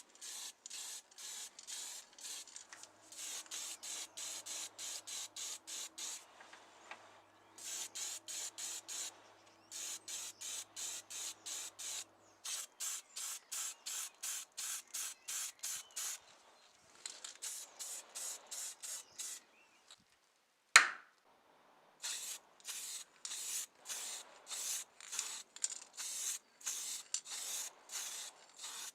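Rhythmic back-and-forth rubbing strokes on a surface by hand, about three a second, in runs of a few seconds with brief pauses. A single sharp knock sounds about two-thirds of the way through.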